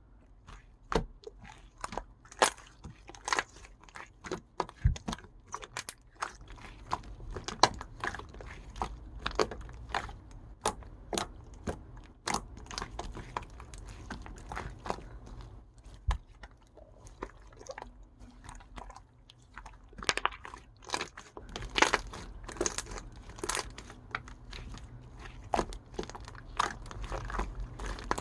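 Slime made with Elmer's glue being squeezed and poked by hand, giving a constant run of sharp, irregular clicks and pops, several a second.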